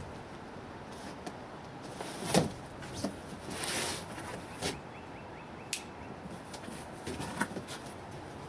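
Handling of a cardboard shipping box: scattered knocks and clicks, the loudest about two seconds in, with a brief scraping rustle a little after it.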